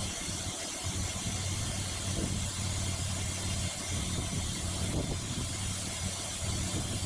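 Engine of a Norwood Lumbermate Mark IV band sawmill head running steadily.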